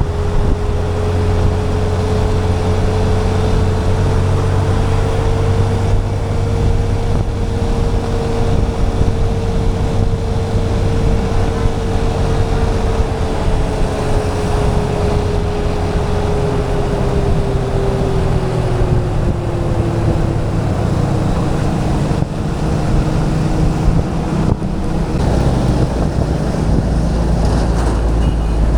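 Motorcycle engine running steadily under way, with wind noise on the microphone; the engine's note drops a little about two-thirds of the way through.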